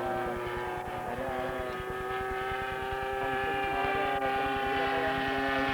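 Engine of a flying aerobatic model airplane running steadily, its pitch rising slightly over the first few seconds.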